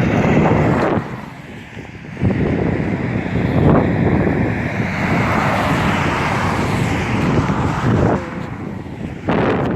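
Gusty snowstorm wind buffeting the microphone as a loud, rushing noise. It drops off briefly about a second in and again near the end, then surges back.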